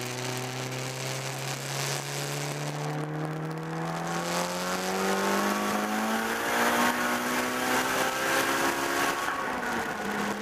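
Turbocharged non-VTEC Honda B18B four-cylinder engine at full throttle on about 28–29 psi of boost in fourth gear, heard from inside the cabin. Its note climbs steadily in pitch for about six seconds as the revs rise from about 3,000 to nearly 7,000 rpm, holds near the top, then drops a little near the end as the revs fall away.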